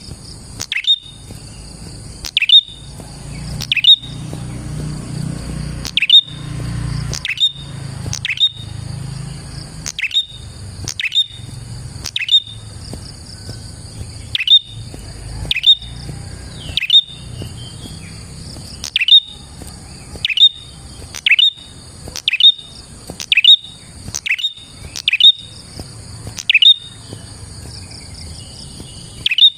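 Prenjak (prinia) calling: a sharp, quickly falling chip repeated about once a second, on and on.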